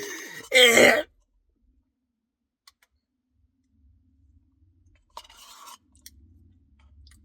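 A short wordless vocal sound, like a groan, in the first second, then quiet. About five seconds in there is a brief scratchy noise, followed by a few faint clicks.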